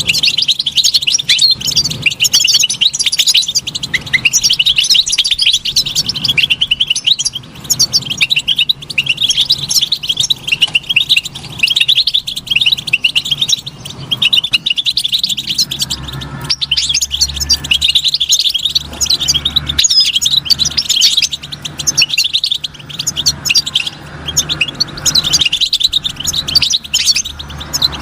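European goldfinch singing: a long, rapid twittering song of quick chirps and trills, with only brief pauses. A low steady hum sits underneath in the second half.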